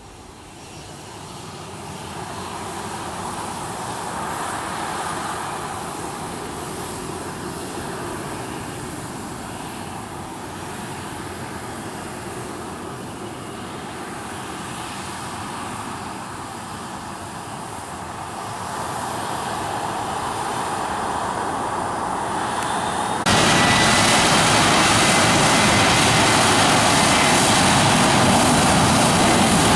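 Jet engines of a Boeing 737-900ER (CFM56-7B turbofans) running, the noise growing louder, then jumping sharply louder about twenty-three seconds in.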